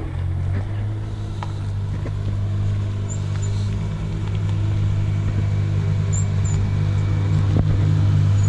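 Car engine running steadily at a low, even pitch, slowly getting louder.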